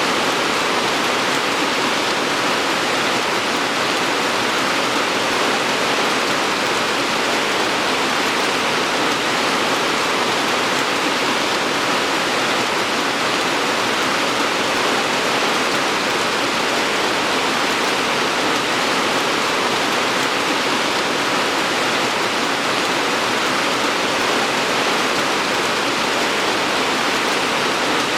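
Steady, even rain with no separate drops or changes standing out.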